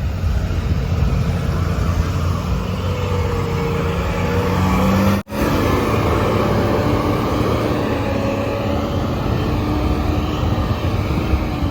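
Heavy diesel engine running steadily under load, with a whining tone that rises slowly and then holds. The sound breaks off for an instant about five seconds in and picks up again.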